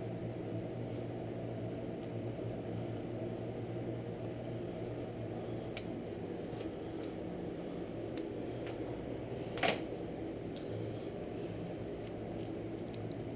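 Steady low mechanical hum with scattered faint clicks and one sharper click about ten seconds in, from handling the parts of an ATC's recoil pull starter while rethreading its rope.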